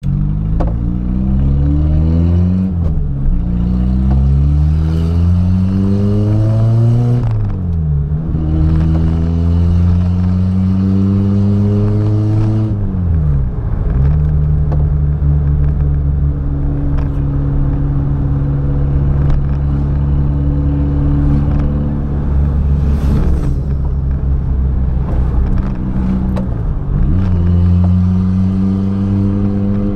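Mk1 Volkswagen Golf engine pulling up through the gears. The note rises and drops at each of three shifts, then holds steady while cruising, with one more shift near the end.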